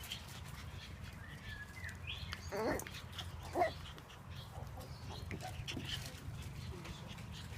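King Charles spaniel puppy making short yips and whines while playing with its reflection, the two loudest about two and a half and three and a half seconds in.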